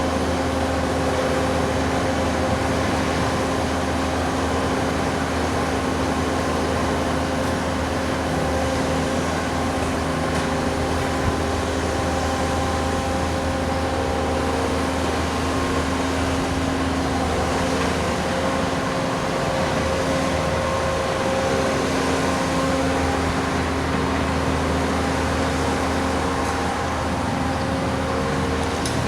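Bobcat skid steer loaders working a road-milling and sweeping job, their diesel engines running steadily under load. A constant hum of several held tones sits over a rough, even noise.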